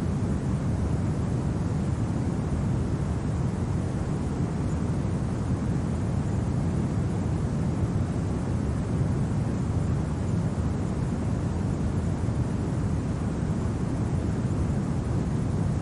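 Steady low rumbling wind noise, even and unbroken, with no distinct events in it.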